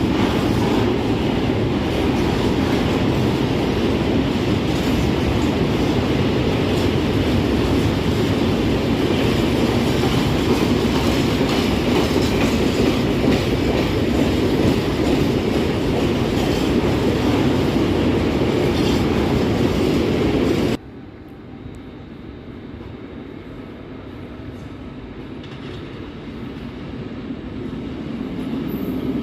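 Train passing on the rails: a steady, loud rumble of wheels with clickety-clack. About two-thirds of the way through it cuts off abruptly to a quieter rumble that grows steadily louder toward the end.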